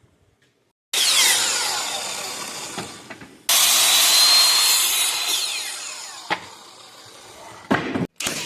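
Power saw cutting wooden braces, twice: each time the saw comes in abruptly and then winds down with a falling pitch. A few short knocks follow near the end.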